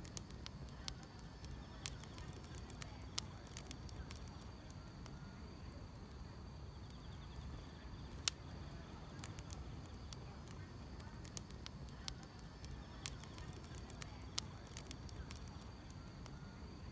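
Wood fire crackling, with irregular sharp pops, the loudest about eight seconds in, over a faint steady chirring of grass insects.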